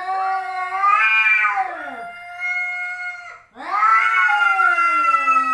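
Domestic cat caterwauling: two long, drawn-out warning yowls, the first lasting about three seconds and the second starting just past halfway. This is the hostile yowl of a cat squaring off in a fight with another animal.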